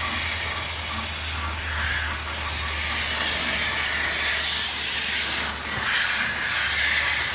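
Water spraying from a hose onto and through the fins of a central air conditioner's condenser coil, a steady hiss as the coils are washed clean of soap and dirt.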